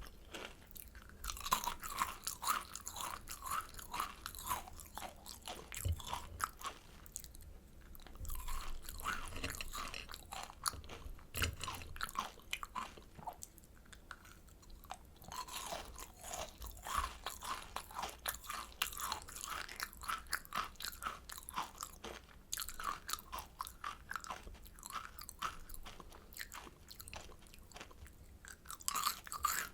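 Close-miked crunching and chewing of kohakutou, Japanese crystal jelly candy, its crisp sugar crust cracking between the teeth in rapid runs of small crunches, with a few short pauses.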